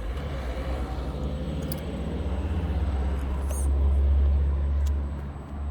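Absima Sherpa RC scale crawler out on a test drive, heard as a steady low rumble that grows louder about four seconds in, with a few light clicks.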